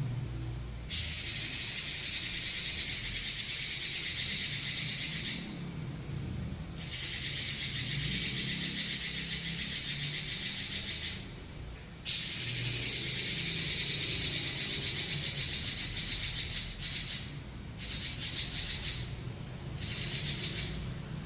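Pekin robin (red-billed leiothrix) singing long, rapid rolling trills, each lasting about four to five seconds with short breaks between, and the phrases getting shorter near the end.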